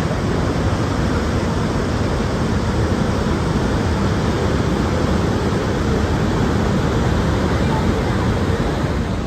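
Steady roar of a tall waterfall's falling water close by, mixed with strong wind rumbling on the microphone.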